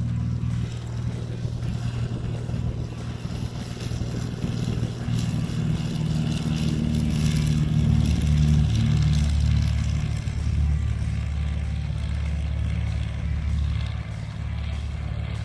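Single-engine training airplane's piston engine and propeller running steadily, a little louder about midway through.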